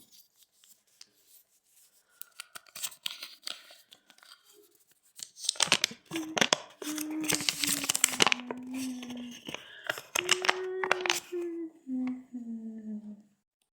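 A bottle being rubbed or twisted so that it squeaks: a low, squealing creak that slides slowly down in pitch, over a scratchy crackle, in several stretches starting about five seconds in, after a few seconds of faint rustling.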